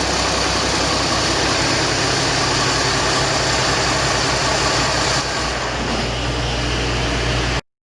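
2005 Cummins ISC inline-six diesel truck engine running steadily. It gets slightly quieter about five seconds in, and the sound cuts off abruptly near the end.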